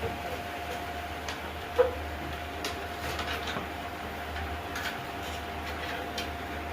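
Irregular light clicks and taps over a steady low hum and a faint steady whine, the sharpest click about two seconds in.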